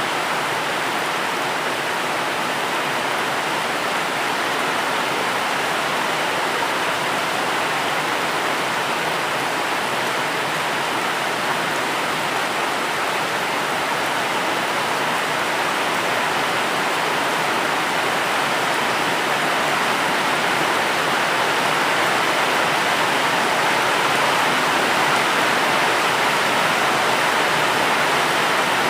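Steady, dense rainfall: an even hiss with no single drops or thunder standing out.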